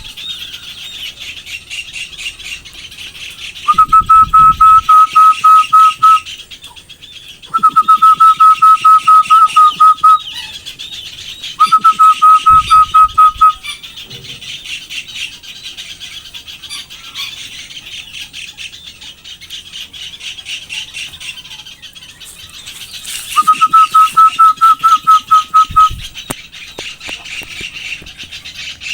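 Birds calling: a constant busy chatter of high chirps, broken four times by a loud bout of one note repeated rapidly, about four or five times a second, each bout lasting two to three seconds.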